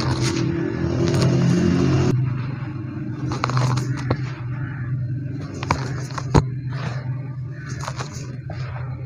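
Dry white cement being crumbled and scraped: a run of scattered crackles and scrapes with one sharp snap about six seconds in, over a steady low hum.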